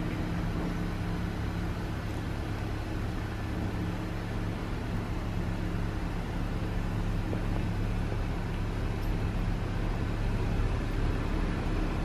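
Honda sedan reversing slowly out of a garage, its engine idling with a steady low hum.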